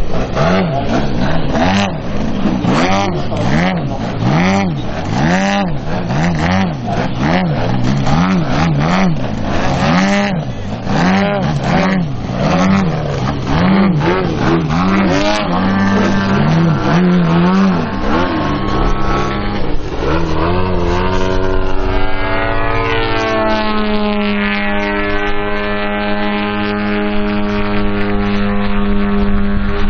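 Propeller engines of two RC Extra 330 SC aerobatic model planes in flight, their pitch rising and falling over and over as they manoeuvre, then settling into a steady drone about two-thirds of the way through.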